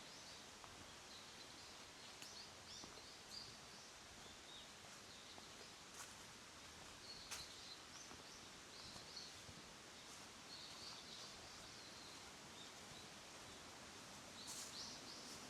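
Faint forest ambience: distant birds chirping in short, high calls scattered throughout, over the steady hiss of a small creek. A few sharp ticks stand out, and a brief cluster of chirps comes near the end.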